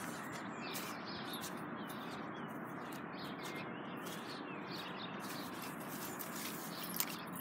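Small birds chirping repeatedly over a steady outdoor background hiss, with a single brief click near the end.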